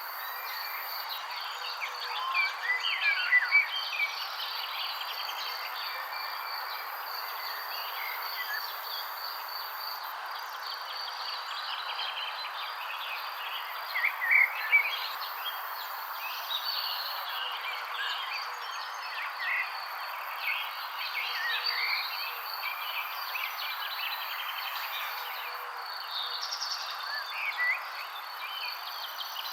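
Many small songbirds chirping over a steady background hiss, with a constant high insect trill underneath. Louder clusters of quick chirps come about three seconds in and again about halfway through.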